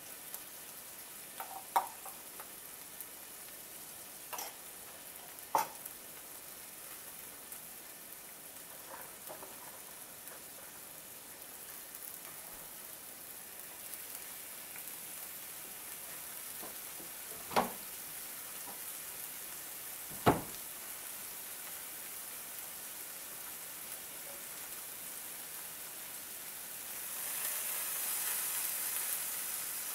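Prawns and garlic sizzling steadily in a hot Lodge cast iron skillet, with a few sharp clicks of a metal spatula knocking against the pan. The sizzle swells near the end as flat rice noodles go into the pan.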